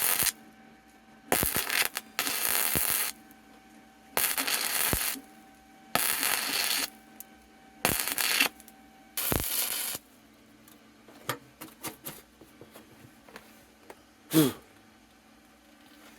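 Wire-feed welder laying short stitch welds on sheet-metal patch pieces: bursts of arc noise about a second long, repeated every second or two, followed by a few light clicks and a knock near the end.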